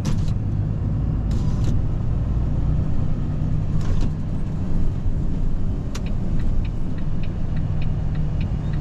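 Volvo FE 320 lorry's diesel engine running steadily as it climbs a hill, a low drone. In the last few seconds there is a run of light clicks, a few a second.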